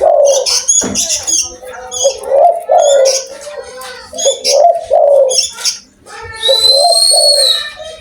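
Spotted dove (tekukur) cooing over and over in low, rolling notes, with small birds chirping high above it. A thump about a second in, and a steady high whistle lasting about a second near the end.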